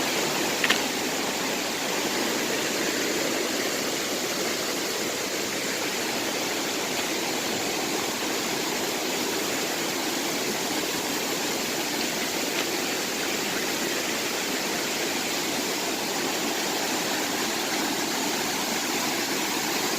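Mountain valley stream rushing steadily over rocks. There is a single short click a little under a second in.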